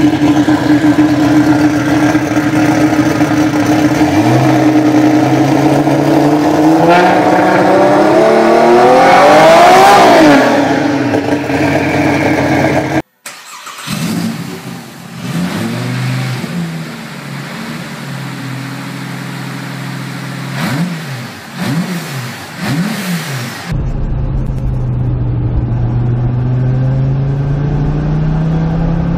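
A big single-turbo engine, likely the turbocharged 2JZ-GTE swapped into a Honda S600, idles, then is revved up hard to a peak and falls back. After a cut, a Škoda Yeti's Audi 2.5 TFSI turbocharged five-cylinder idles and is blipped three times. A final cut leads to an engine heard from inside the car, pulling with a steadily rising pitch under acceleration.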